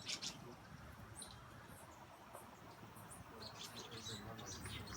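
Small birds chirping: a flurry of short, high chip notes at the start, then a busier run of them from about three and a half seconds in.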